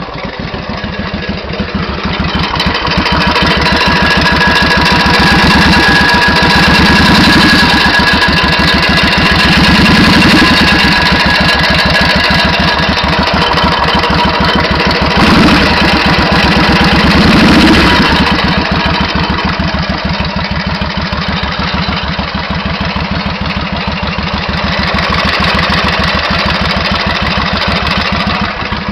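Suzuki VS1400 Intruder V-twin engine running, blipped up several times and then settling back to idle, with a metallic knocking like hammer blows that quickens as the revs rise. The cause is undiagnosed: the owner suspects a worn, slack timing chain or tensioner, while mechanics have blamed a valve, a hydraulic lifter or a crankshaft bearing.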